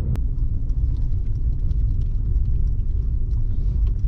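Steady low road rumble inside a moving car, with a sharp click just after the start and a few faint clicks.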